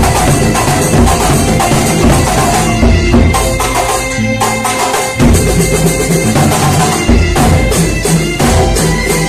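Kuntulan ensemble music: drums and other percussion beaten in a dense, driving rhythm with held pitched tones above it. The low drumming drops out briefly about four to five seconds in.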